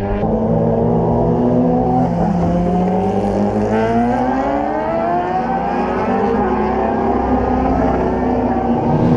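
Racing motorcycle engines running hard at high revs, several engine notes overlapping, with the pitch climbing through the middle of the stretch as they accelerate.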